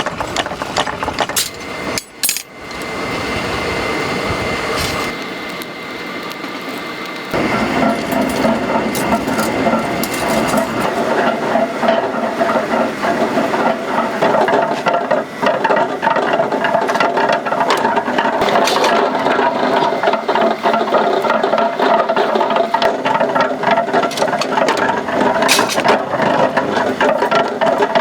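Machinery hammering metal in a blacksmith's shop: a fast, even run of metallic knocks sets in about seven seconds in and keeps going, after a few scattered clanks and a steadier running noise at the start.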